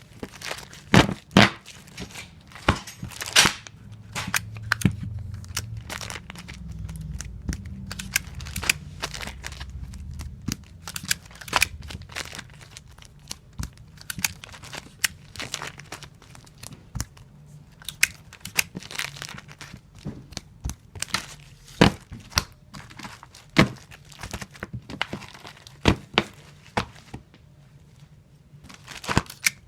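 Tape dispenser in repeated use as comic books are taped: strips of tape pulled off the roll and torn on the cutter, giving irregular sharp snaps and tearing with some crinkling.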